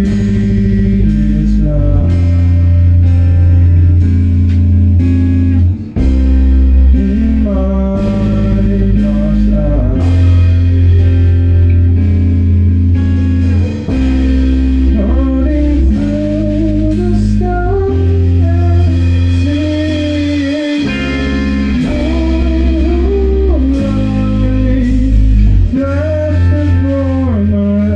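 A rock band rehearsing a song: guitars and bass play chords that change every few seconds, with a melody line on top that bends and slides in pitch.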